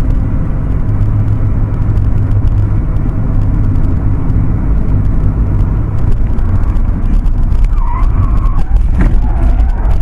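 Loud, steady low rumble of a motor vehicle running, with a few brief higher tones near the end.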